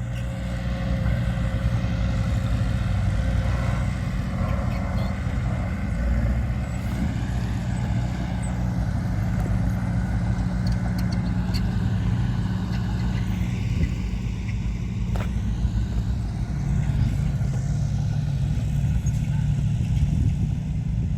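Heavy earthmoving machine's diesel engine running steadily under load, a low continuous drone with a few faint knocks.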